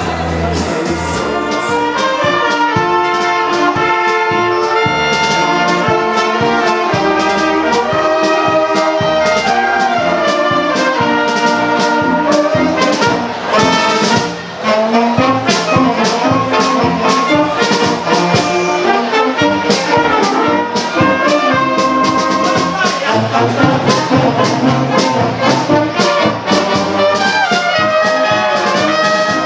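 Brass band playing a tune, with trumpets and trombones over low bass notes.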